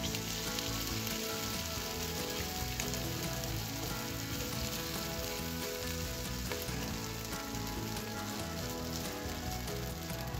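Chopped, boiled green beans frying in hot oil in a non-stick pan: a steady sizzle that starts as they are tipped in, while they are stirred with a spatula.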